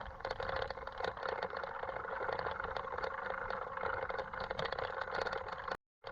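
Mountain bike rolling over a rough road: steady tyre noise with rapid small rattles and clicks. The sound cuts out for a moment near the end.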